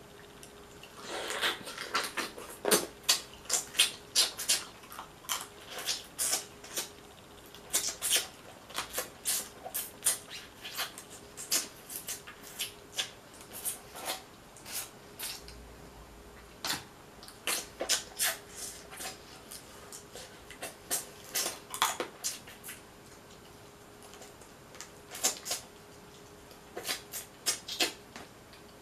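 Close-miked eating sounds: wet chewing and lip-smacking of boiled Dungeness crab meat, a quick run of sharp clicks broken by a couple of short pauses.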